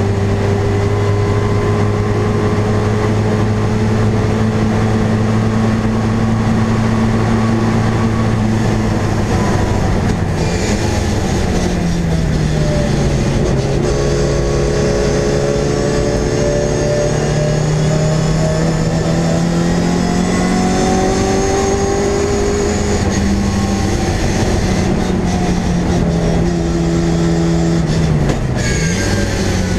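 MG Midget race car's engine heard from inside its stripped cockpit, running hard at speed. The revs drop sharply about ten seconds in, climb slowly through the middle, and dip quickly again near the end.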